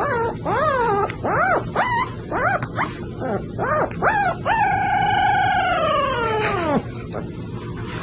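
Dog howling: a run of short rising-and-falling yowls, about two a second, then one long held howl that drops in pitch as it ends.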